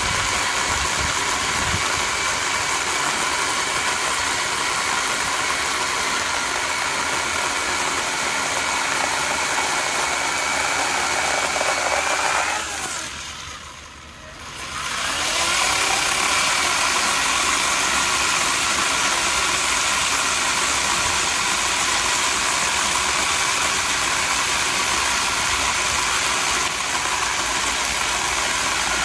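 Worcraft 40V battery chainsaw's electric motor running steadily at speed, with a whine. About halfway through it winds down almost to a stop, then speeds back up and runs on.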